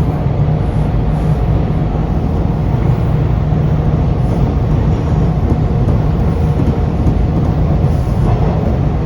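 Toronto subway train running between stations, heard from inside the car: a steady, loud rumble of wheels and running gear with a faint, even whine.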